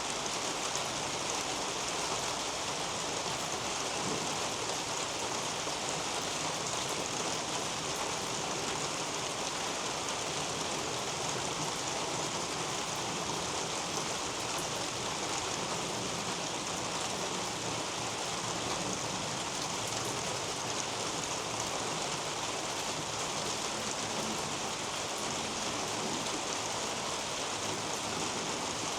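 Steady rain falling on a roof and on the leafy garden plants overhead: an even hiss with scattered drops ticking through it.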